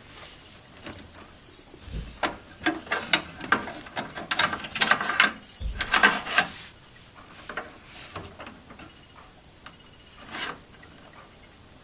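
Rustling and clicking of power cables and plastic connectors being handled inside a desktop PC case, with two dull thumps. The handling is busiest in the middle and tails off to a few light clicks near the end.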